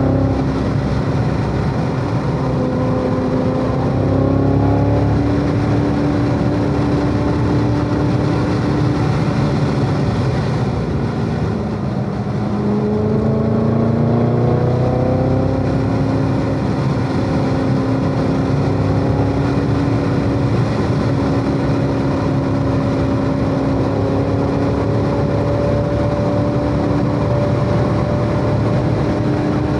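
Chevrolet Corvette C7 Z06's supercharged 6.2-litre V8 driven hard on track: the engine note climbs slowly under load, drops about ten seconds in as the car slows, then climbs steadily again through a long pull.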